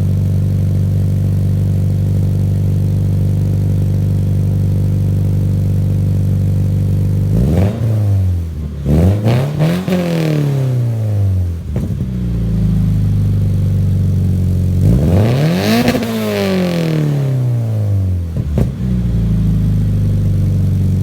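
2016 Scion FR-S's 2.0-litre flat-four boxer engine, breathing through an Invidia N1 exhaust with a catless front pipe, idling steadily and then revved in free throttle. A quick blip and a longer rev about 7 to 11 seconds in, and another rev about 15 seconds in, each rising and falling back to idle.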